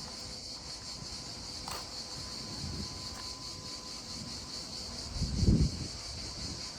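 Insects chirping steadily in a high, pulsing drone, over low wind rumble; about five seconds in, a louder low buffet of wind on the microphone.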